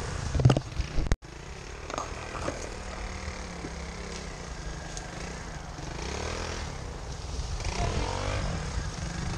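Pit bike's small single-cylinder four-stroke engine running and revving up and down as it rides over rough ground. A couple of sharp knocks come in the first second.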